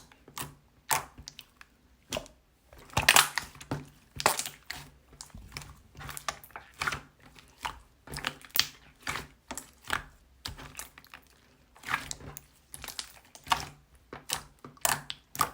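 Handmade peach mogumogu slime being squeezed and pressed by hand, giving irregular crackling clicks and short pops.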